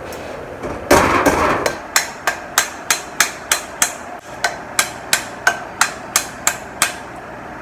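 A brief scraping rub, then a run of about fifteen sharp, even knocks, about three a second with a short break midway, as a hard object is struck against a stuck push-down drink cap to force it open.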